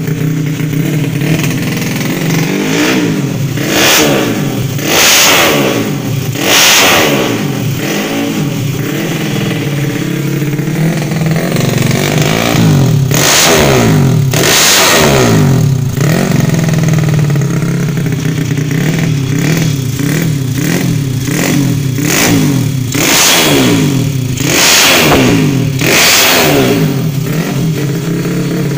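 Honda Supra motorcycle engine running through an aftermarket racing exhaust, idling and revved up in short throttle blips several times, each rise in revs falling back to idle.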